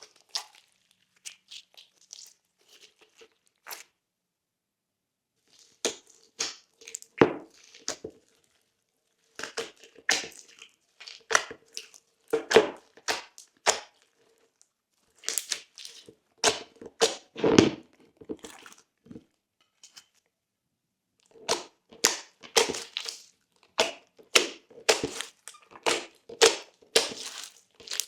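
Thick glossy slime being pressed and folded, giving bursts of sharp pops and crackles with short silent gaps between them.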